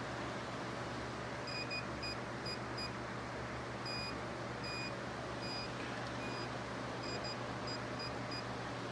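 Digital torque wrench beeping as a bolt is tightened toward its 106 inch-pound setting. It gives a run of short, high beeps starting about a second and a half in, some quick together and some longer and spaced apart, over a steady faint hum.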